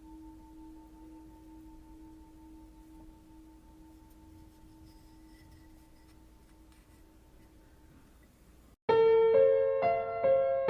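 Background music: a soft held ringing tone, like a singing bowl, slowly fading. About nine seconds in it cuts off and a louder piano melody starts abruptly.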